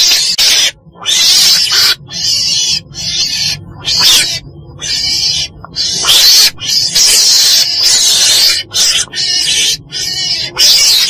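Weasel (Mustela) calling: a rapid string of harsh, noisy calls, each under a second long, with short breaks between them.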